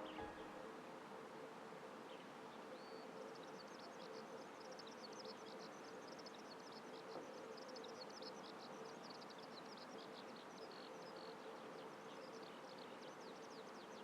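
Faint, long, rapid run of high twittering birdsong notes, beginning about three seconds in and continuing without pause, typical of a Eurasian skylark's song, over a steady low hum.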